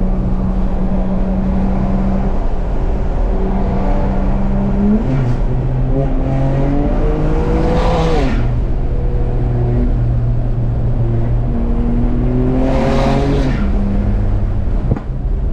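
BMW 335i's twin-turbo N54 inline-six, fitted with Flow Max+ turbos, heard from inside the cabin. It runs with a steady drone, then pulls hard twice, about six and about twelve seconds in, its pitch rising with a rush of hiss before dropping off sharply.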